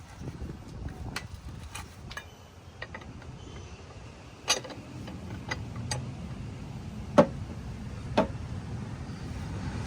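Lug wrench working the lug nuts of a car wheel: a few sharp metallic clicks and knocks, irregularly spaced, the loudest about seven seconds in, over a low rumble.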